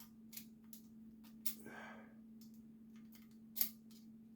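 Light clicks and taps of a small tool working at a carburetor body, trying to free a stuck check ball, the sharpest click near the end, over a faint steady hum.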